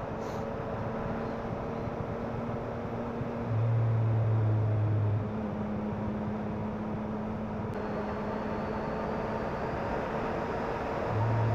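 Yamaha MT-09 SP's three-cylinder engine running at a steady, low cruising speed under wind and road noise. Its low hum grows louder twice, for about two seconds a few seconds in and again near the end, without changing pitch.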